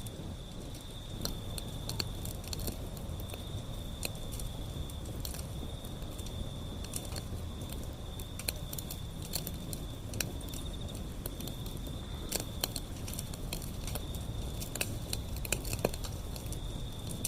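Wood fire burning, with irregular crackles and sharp pops over a low steady rumble, and a thin steady high tone alongside.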